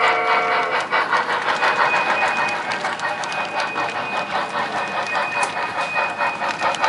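Model K-27 steam locomotive running on the layout during switching. A whistle ends just under a second in, followed by a fast run of clicks and a steady high whine.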